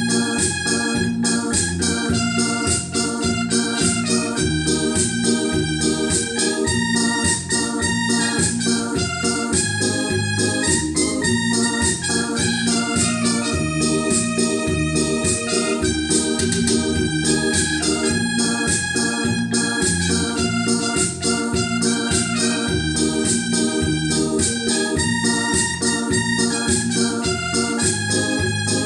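Electronic organ music: a melody of held notes over a steady, even bass-and-chord accompaniment.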